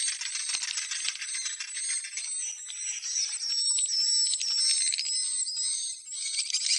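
Swiftlets twittering: a dense chorus of high, rapid chirps and short arched trills over a fast buzzy clicking, with a brief dip about six seconds in.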